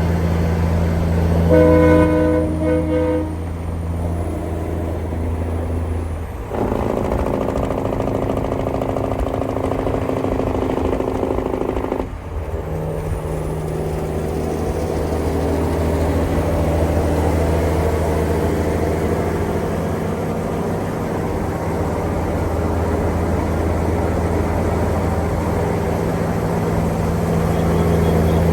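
Steady low drone of a running vehicle, with a horn sounding about a second and a half in for under two seconds, broken briefly near its end.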